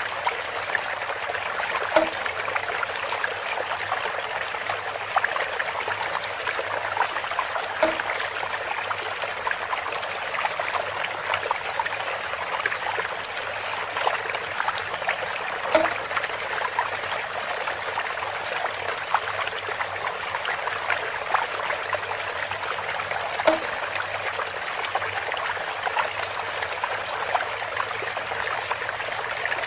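Water running steadily through bamboo, trickling and splashing. Every seven to eight seconds there is a short, pitched hit.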